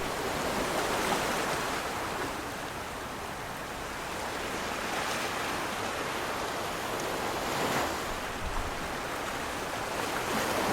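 Waves breaking and washing in, swelling in surges every few seconds.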